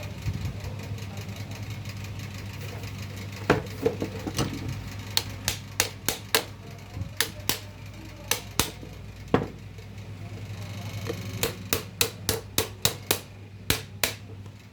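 A string of sharp, irregular taps or knocks, a few a second at their busiest, over a steady low hum.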